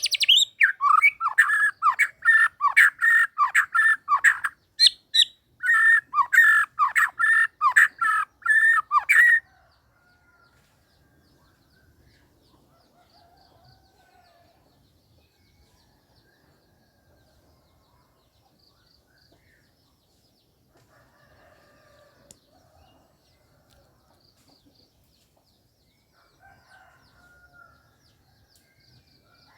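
A bird calling loudly in a fast series of short, repeated notes, with a brief pause midway, cut off abruptly about nine seconds in. After that come only faint, scattered chirps.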